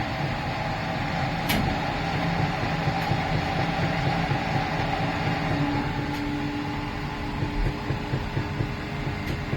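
2011 Miele PW 6080 commercial washing machine running: a steady motor hum with a few held tones over the drum's noise, and a single click about one and a half seconds in.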